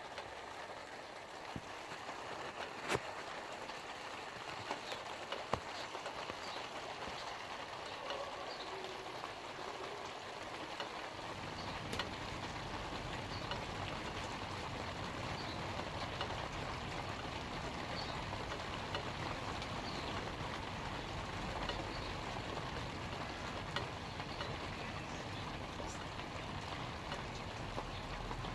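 Light rain falling on leaves: a steady hiss with occasional sharp taps of single drops. A deeper, steady undertone comes in about a third of the way through.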